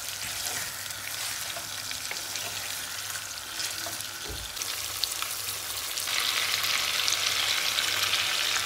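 Chicken pieces sizzling in hot oil with onions in a nonstick wok, turned over with a wooden spatula as they are seared until white. The sizzle grows louder about six seconds in.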